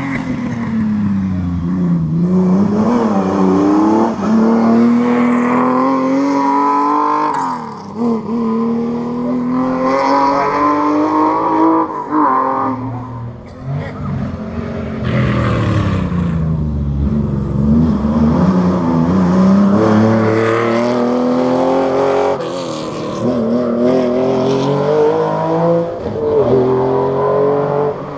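Historic rally cars at full speed on a special stage: engines rev hard, their pitch climbing and dropping again and again through gear changes and lifts for corners as they pass.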